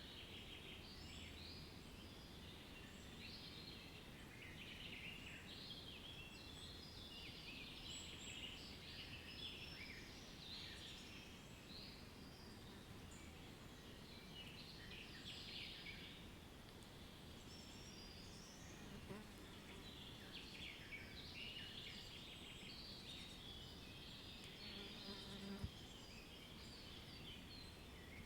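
Faint nature ambience: a dense, irregular chorus of short high chirps and trills over a low hiss, with a single sharp tick about 25 seconds in.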